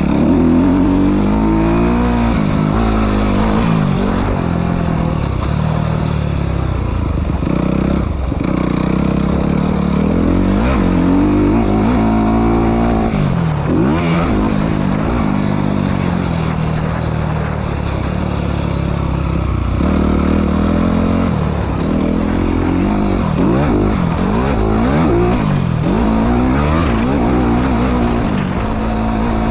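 Honda CRF four-stroke motocross bike engine riding a dirt track, revving up and dropping back over and over as it accelerates, shifts and slows for corners.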